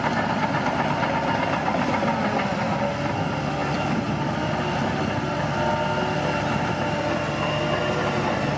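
Bulldozer running steadily, its diesel engine and steel tracks making a continuous heavy mechanical noise.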